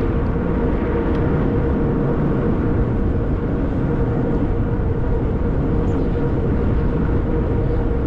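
Steady riding noise from a 20-inch fat-tire e-bike on the move: a continuous low rush of wind and tyre noise, with a steady hum a little under 500 Hz running through it.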